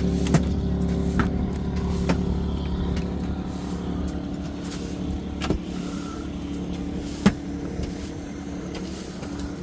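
Motorboat engine running at a steady pitch under way, slowly easing slightly in loudness, with a few sharp knocks scattered through it.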